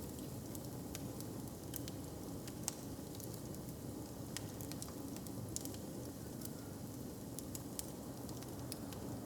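Hearth fire crackling: irregular sharp pops and snaps, a few each second, over a steady low rumble.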